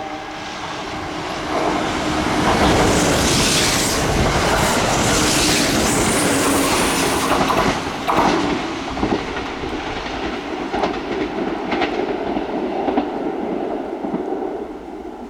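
Kintetsu train passing through the station at speed without stopping: a loud rush of train noise that builds, peaks, then fades away, with a few sharp wheel clicks over rail joints in the second half.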